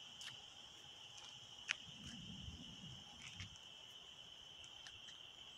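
Faint, steady chirring of crickets or other night insects, with a single sharp click about a second and a half in and a faint low rumble a couple of seconds in.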